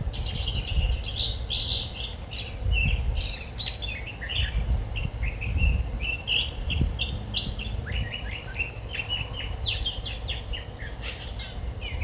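Small birds chirping and twittering in quick, high runs of notes, over a steady low rumble of wind on the microphone.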